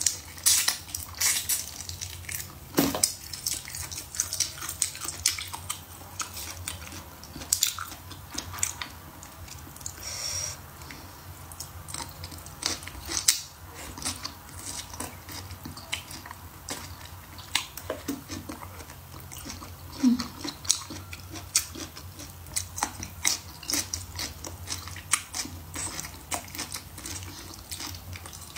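Close-miked eating: chewing braised pork and biting into green chili peppers, with many short, irregular wet crunches and mouth clicks.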